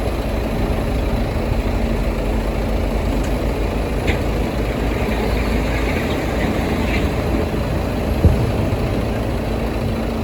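Heavy diesel construction machinery running steadily with a deep rumble, with a few light metallic clinks and one dull thud about eight seconds in.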